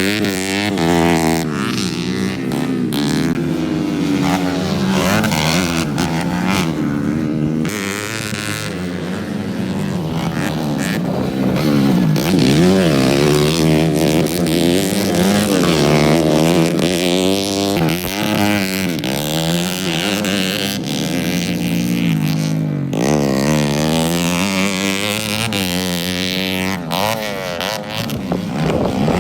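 Motocross bike engines racing, the pitch rising and falling over and over as the riders accelerate, shift and back off, with more than one engine heard at times.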